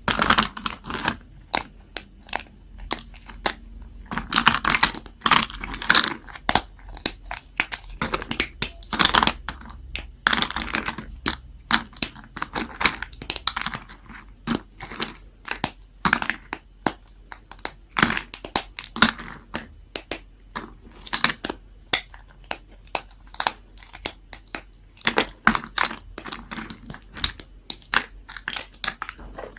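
A blade cutting through super-dry bar soap: a dense, irregular run of sharp crisp cracks and crunches, with a few longer scraping cuts.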